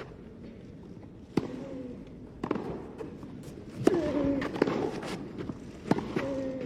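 Tennis rally: a ball struck by rackets several times, a sharp hit every one to two seconds, with the loudest strike about four seconds in. Several hits come with a player's short vocal grunt.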